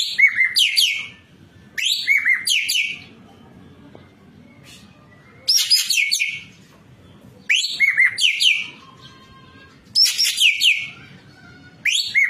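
Ekek keling singing in short bursts every two seconds or so, six times. Each burst is a quick run of sharp chirps and down-slurred whistles about a second long.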